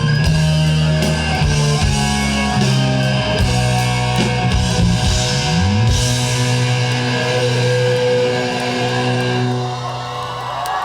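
Rock band playing live, an instrumental passage of electric guitar, bass and drums. About five and a half seconds in the low line slides upward into held notes, and the music drops away near the end.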